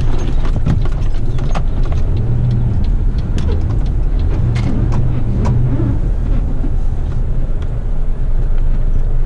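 Heavy waste truck's diesel engine running under a low, steady rumble heard from inside the cab as it drives slowly in, with scattered clicks and rattles.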